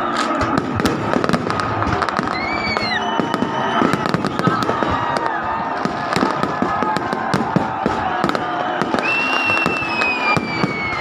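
Fireworks display: a dense, continuous barrage of bangs and crackles. High whistles glide over it, a short one about two seconds in and a long falling one from about nine seconds in.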